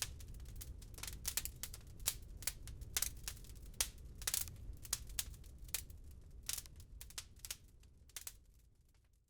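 Wood fire crackling, with frequent sharp pops and snaps over a steady low rumble, fading out near the end.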